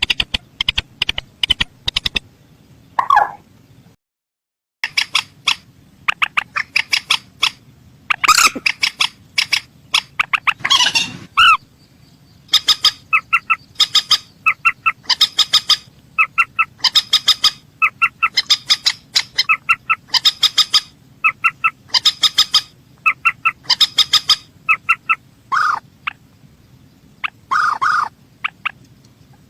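Mandar sawah, a rail, calling in repeated bursts of quick, clipped notes, one bout after another. The sound drops out completely for about a second, roughly four seconds in.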